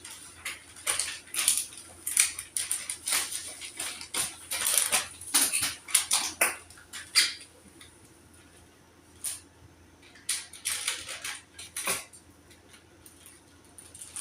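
Small household items and supplies being handled, sorted and set down: a string of quick rustles, clicks and clatters. A lull comes about halfway through, then a shorter cluster of handling.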